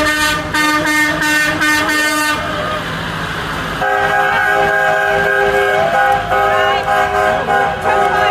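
Vehicle horns: a run of about five quick toots, then after a short gap a long multi-tone air-horn blast, like a train horn, held with small breaks.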